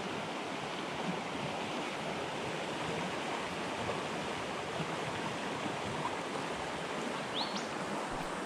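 River water rushing steadily, with two quick high rising chirps near the end.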